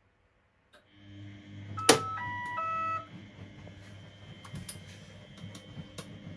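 Washing machine's electronic controls: one sharp click, then a short run of electronic beeps at changing pitches, followed by a few light clicks over a steady hum.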